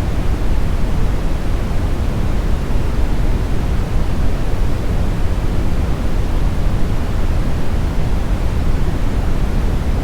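Steady synthetic brown noise: a smooth, deep, even rumble with most of its weight in the low end and no events or changes.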